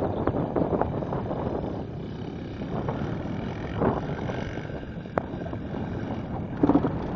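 Wind buffeting the microphone outdoors: a steady, uneven rumble with a few brief clicks and no clear engine note.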